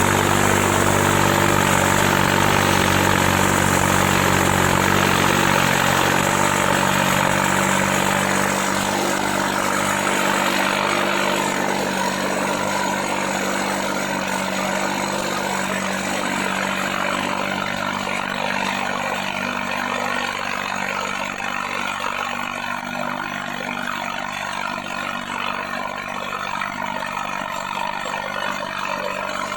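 Tractor diesel engine running hard and steady while pulling a harrow, then growing gradually quieter after about eight seconds.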